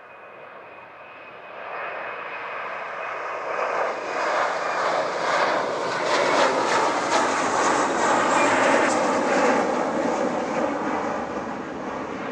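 Jet airliner's engines passing close by: the noise swells from about a second and a half in, is loudest in the middle, and begins to fade near the end. A thin high whine sits over the noise at first.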